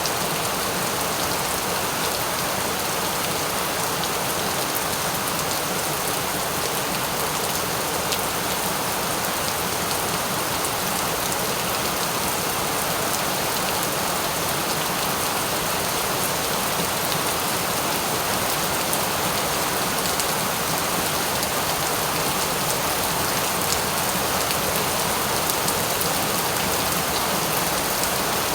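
Steady rain falling, an even hiss of drops with faint scattered patters.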